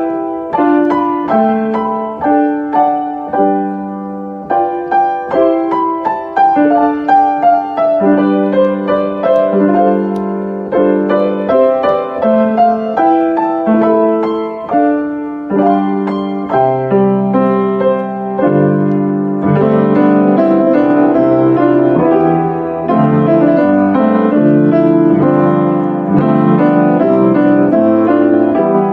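Piano music: single notes and chords, each struck and fading away, until about two-thirds of the way in the playing turns to fuller, sustained chords.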